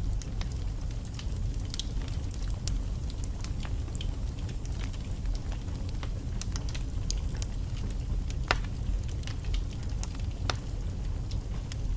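Wood fire burning in a fireplace: a steady low rumble of flames with irregular sharp crackles and pops from the logs, the loudest pop a little past eight seconds in.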